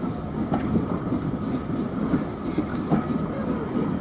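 A heritage railway train running along the track, with a steady rumble and the wheels knocking over rail joints twice.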